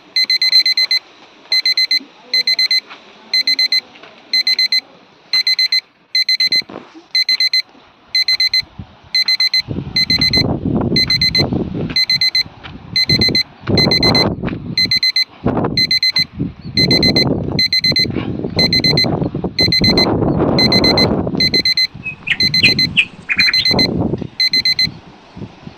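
An electronic alarm beeping at a fixed high pitch, about one beep every three-quarters of a second, stopping near the end. From about ten seconds in, loud bursts of low rumbling noise come and go over it.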